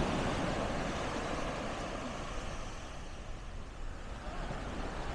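Ocean surf with wind rumbling on the microphone, a steady noisy wash without distinct events.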